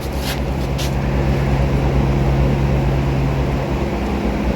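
A motor running steadily with an even hum, with two short clicks in the first second.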